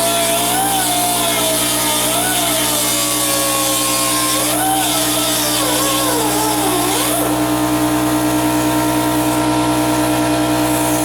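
Rotary grinder with a grinding stone running steadily, smoothing an exhaust flange after a broken manifold stud has been cut off. A melody with a singing voice plays over it for the first seven seconds or so.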